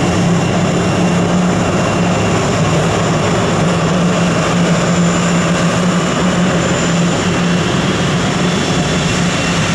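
Jet airliner engines running steadily nearby, a loud even rush over a low hum with a thin high whine on top.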